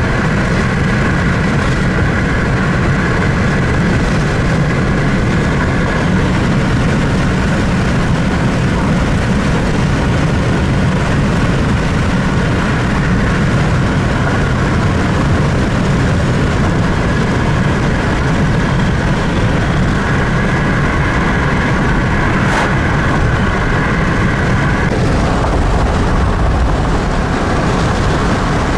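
Steady low rumble and hiss inside a vehicle cabin, from the engine running and the heater blower on, with a faint steady whine that fades in and out.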